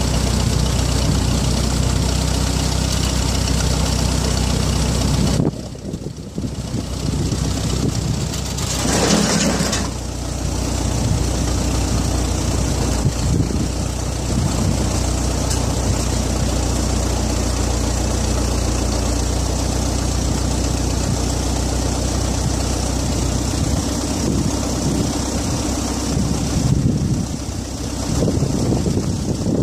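A backhoe's engine running. It drops suddenly about five seconds in, a brief hiss comes near nine seconds, and then the engine runs on unevenly.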